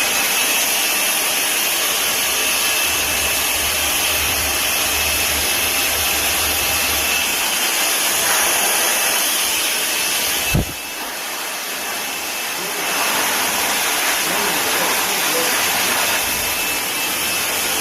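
Vacuum cleaner motor switched on and running with a steady rushing whine, blowing air out rather than sucking it in. A sharp knock comes about ten and a half seconds in, after which the running sound is a little quieter for a couple of seconds before it comes back up.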